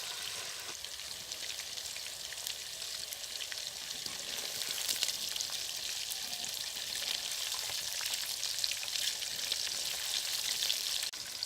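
Chicken pieces frying in hot oil: a steady sizzle with scattered small crackles.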